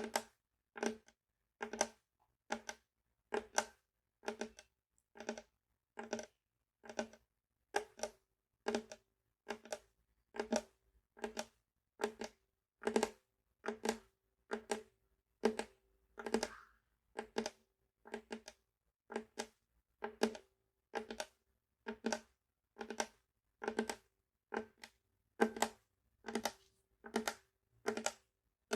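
Ukulele played percussively in a slow, even beat: a short click about four times every three seconds, each with a brief low ring from the strings.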